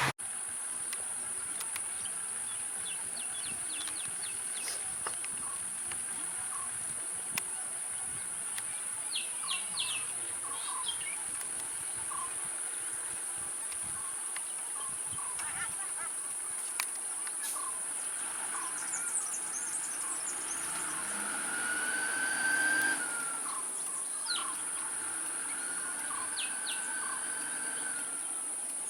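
Steady high-pitched insect drone, with scattered short bird chirps and calls over it and a longer whistled call about two-thirds of the way through.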